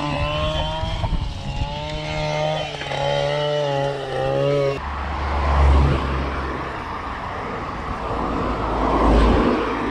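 A car engine running close by, its pitch wavering slowly. After a sudden cut it gives way to a steady low rumble and hiss of wind and road noise from riding a bike.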